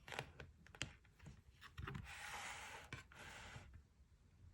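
Faint rustling of paper with a few light taps, as the pages of a picture book are handled; the rustle runs for about two seconds from near the middle.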